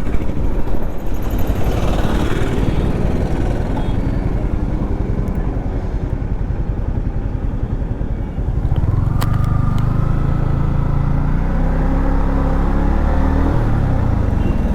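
Modified Yamaha MT-15's single-cylinder engine running at highway speed under a steady rush of wind noise. About eight seconds in the engine note grows louder and climbs slowly in pitch as the bike accelerates.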